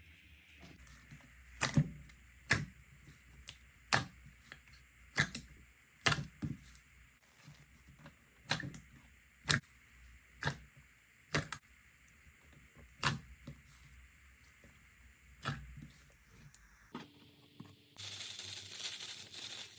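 Slime being pressed and worked by hand, giving sharp pops or clicks about once a second. After a cut near the end, a steady hissing, crackling stretch follows.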